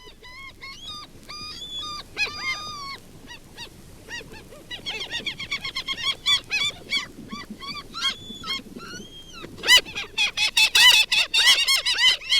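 Gulls calling, common and black-headed gulls: many short harsh calls, some overlapping, that grow denser and louder near the end into a squabbling chorus.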